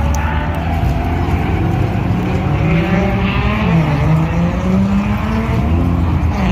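Drift car engine running hard, its pitch rising and falling as it revs up and down.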